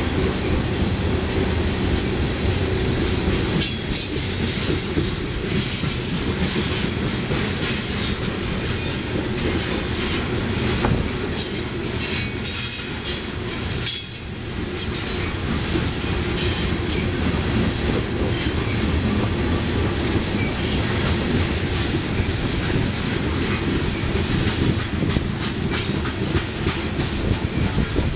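BNSF coal train's open-top coal cars rolling past steadily: a continuous low rumble with wheels clacking over the rail joints. High wheel squeals and screeches come and go, mostly through the middle stretch.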